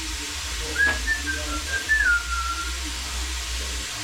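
A person whistling a short run of notes of a tune, the pitch stepping up and down, with a sharp click about a second in over a steady low background hum.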